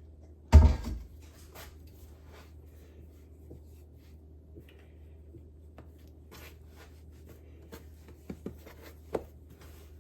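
Hands working sourdough on a floured countertop: one heavy thump about half a second in, then soft rubbing and scraping with a few light taps near the end.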